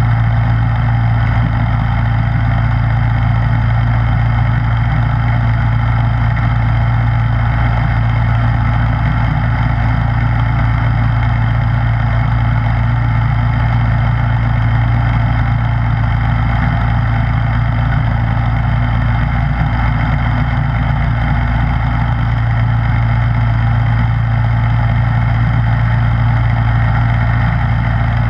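Snowblower engine running at a steady, unchanging speed, a loud continuous hum.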